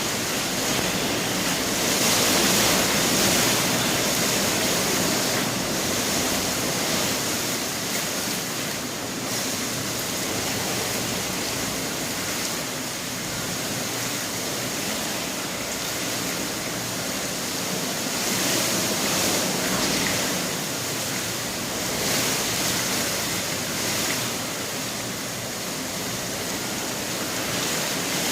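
Storm wind blowing in a steady rush that swells and eases every few seconds.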